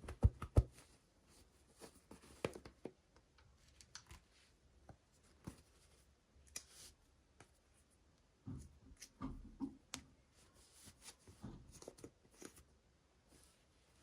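Small toy packaging handled by hand: scattered plastic clicks, taps and a short rustle, with a cluster of soft knocks around the middle.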